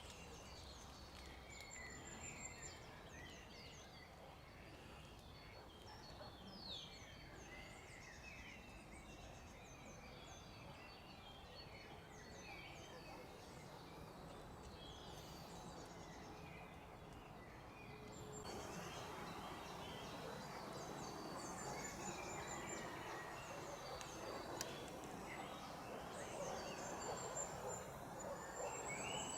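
Small songbirds chirping and singing, many short high calls and trills overlapping. About two-thirds through, a louder, steady rushing noise joins them.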